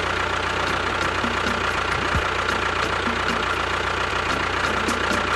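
A DIY mini tractor's motor running steadily, with a constant whine over a low hum and faint regular ticking.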